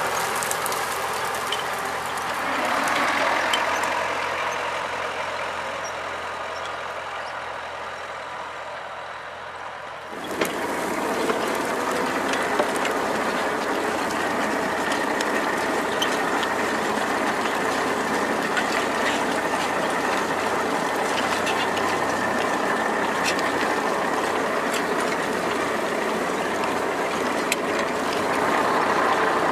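T-40AM tractor's air-cooled diesel engine running with a rattling mechanical clatter. It fades gradually, then comes back abruptly louder about ten seconds in and stays steady.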